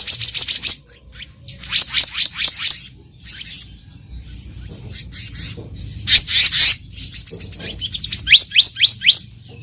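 Black-naped monarch calling: bursts of rapid, high, repeated sweeping notes, one run after another with short pauses, the longest run about seven seconds in.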